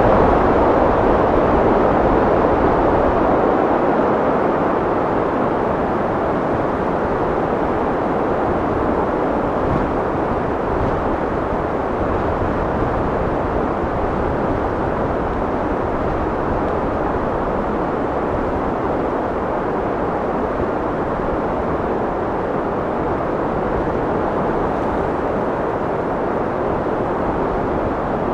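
Steady wind blowing, a continuous rushing noise with no distinct gusts, slightly stronger in the first few seconds and then holding even.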